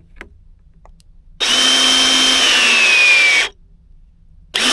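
A powered crimping tool's motor runs for about two seconds, closing a side pinch ring on a PEX coupling, with a high whine that drops in pitch as it bears down. It starts again near the end.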